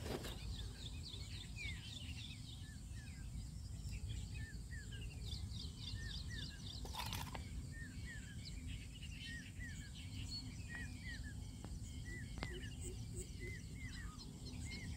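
Many small birds chirping on and off in a busy chorus over a low, steady background rumble, with a short noisy rustle about seven seconds in.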